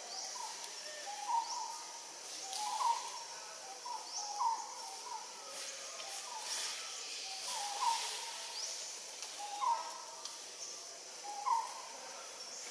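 A bird calling over and over, a short hooting call about every one and a half seconds.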